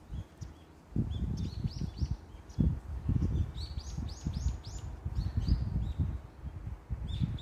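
Small birds chirping: short high notes, some coming in quick runs, over an uneven low rumble of wind on the microphone.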